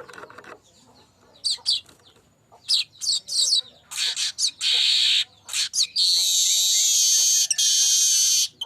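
Streaked weaver (manyar kembang) singing: a few short, high chirps sweeping downward, then a harsh buzzing wheeze, and near the end a longer loud sizzling buzz.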